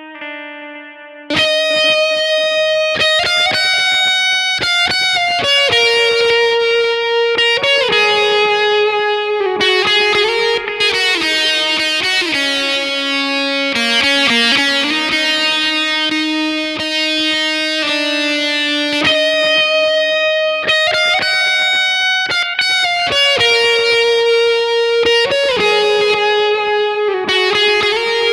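Electric guitar lead played through a fuzz pedal with delay: a note dies away, then about a second in the solo resumes with long, heavily distorted sustained notes and a few pitch bends.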